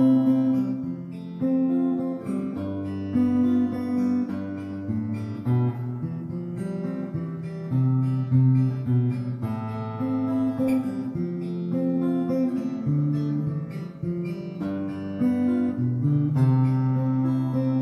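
Acoustic guitar playing an instrumental break in waltz rhythm, strummed chords under a melody line, with no singing.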